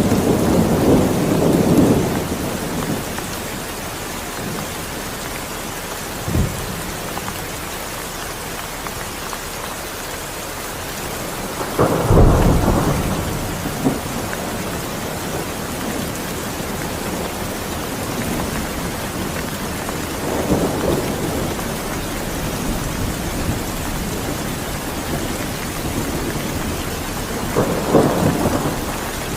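Steady rain with several low rolls of thunder that swell and fade, the strongest about twelve seconds in.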